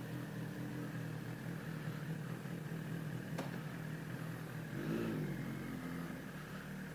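Sport bike engine idling steadily, with a short throttle blip that rises and falls in pitch about five seconds in.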